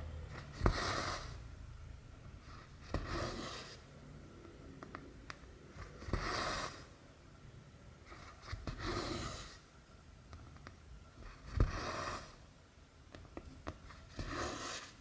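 Cotton embroidery thread drawn through cross-stitch fabric: six short pulls about three seconds apart, several starting with a sharp tick of the needle, with small ticks between.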